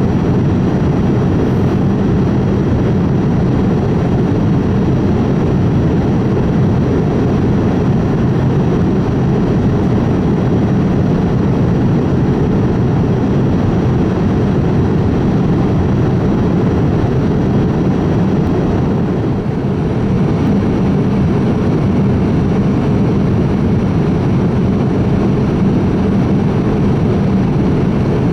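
Steady, even cabin noise inside a Boeing 787-8 Dreamliner powered by two General Electric GEnx-1B engines: a low, unbroken rumble and rush with faint steady high tones above it.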